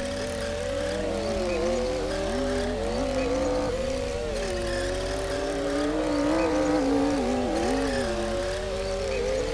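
Komatsu D60P bulldozer's diesel engine working under load while pushing soil, its note rising and falling over a steady low rumble.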